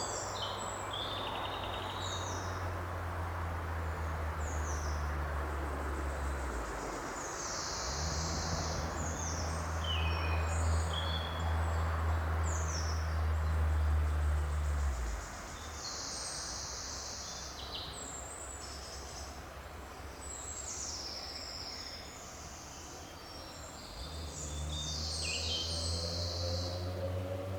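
Several small birds chirping and singing in short high calls over a steady forest hiss, with a low hum underneath that drops out twice and comes back.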